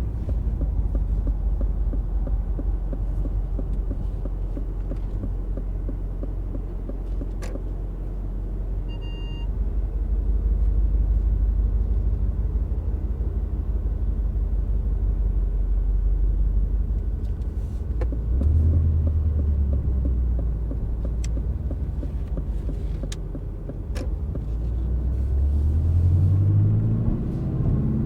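Aston Martin Vantage's 4.0-litre twin-turbo V8 running at low revs with a low steady rumble, its note rising twice as it is given gentle throttle, about two-thirds of the way through and again near the end. A short electronic beep about a third of the way in and a few sharp clicks.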